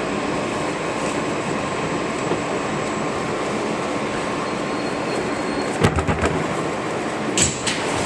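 R160B subway train rumbling steadily, heard from inside the car. A quick run of clicks from the wheels or rails comes about six seconds in, and a sharper clack follows near the end.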